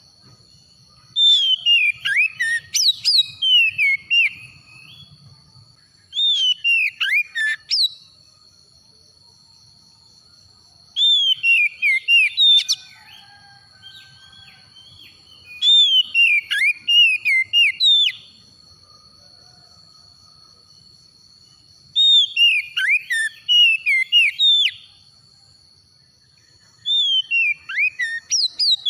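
Oriental magpie-robin (kacer) singing in six phrases of quick whistled and sweeping notes, each two to three seconds long with short pauses between. A faint steady high whine runs underneath.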